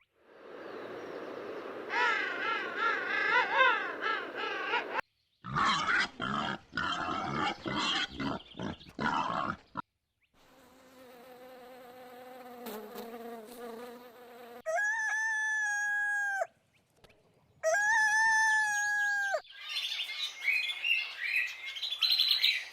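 A run of different animal sounds one after another: a buzzing, insect-like stretch, choppy calls, a steady hum, then two long held calls about a second apart, and rapid high chirps near the end.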